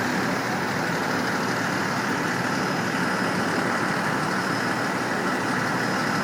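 A vehicle engine idling steadily, an even unbroken noise with no knocks or changes.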